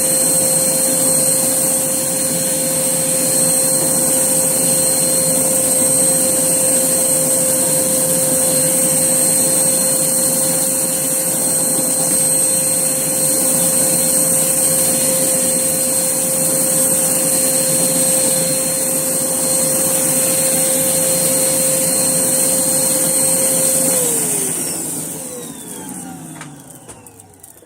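Hoover Blaze vacuum cleaner motor running steadily with a high whine, then switched off near the end, its pitch falling as the motor spins down.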